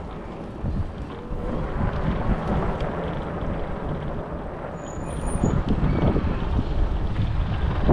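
Road traffic noise with gusty low wind rumble on the microphone.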